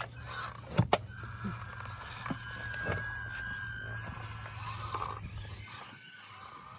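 Small electric motor of an Axial SCX24 1/24-scale RC crawler whining steadily as the truck climbs, with sharp clicks and knocks of the truck against rocks, two loud ones about a second in. A low hum underneath stops near the end.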